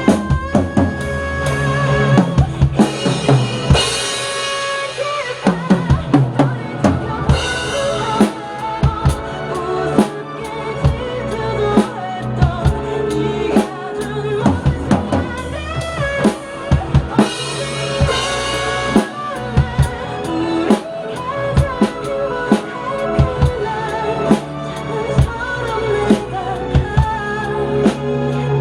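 A drum kit played along to a backing track of a pop ballad, with steady kick and snare strikes and fills. Cymbal crashes ring out a few seconds in and again past the middle.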